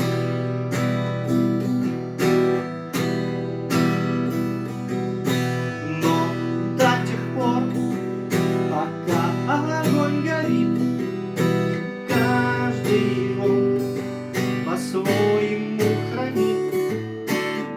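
Acoustic guitar strummed in a steady rhythmic pattern, chords changing every so often, with a man singing the song's verse over it in places.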